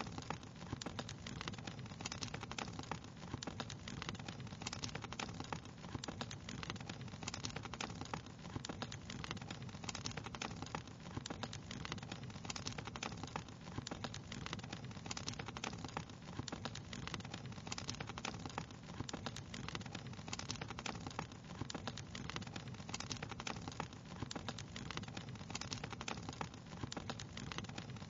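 Wood fire crackling: dense, irregular small pops and snaps over a steady low hiss.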